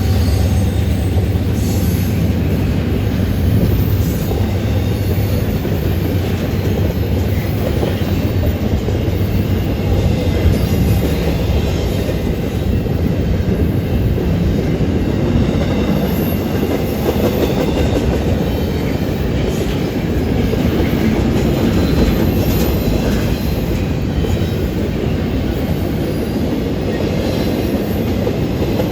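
A long train's cars rolling past at close range: a steady, loud rumble of steel wheels on the rails.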